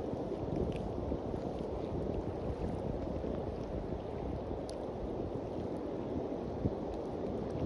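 Steady low wind rumble on the microphone over surf washing onto a beach, with a few faint ticks.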